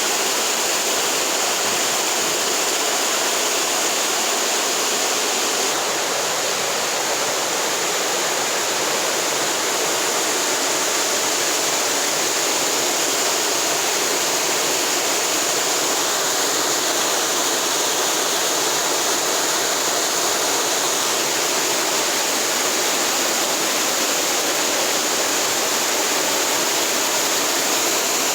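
Waterfall pouring close by: a steady, unbroken rush of falling water.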